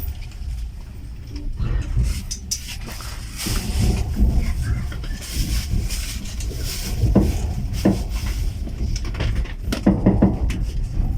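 Steady low rumble inside a passenger railway carriage, with indistinct voices and occasional knocks.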